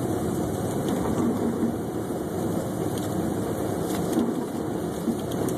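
Steady in-cabin road and engine rumble of a Chevrolet Suburban driving on a snow-covered road, with a few faint taps.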